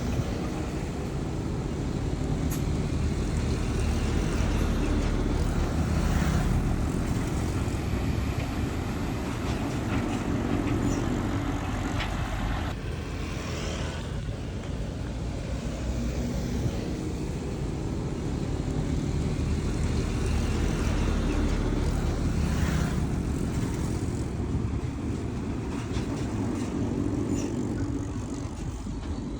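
Heavy diesel engines of dump trucks and a bulldozer running, a steady rumble that grows louder and eases off several times.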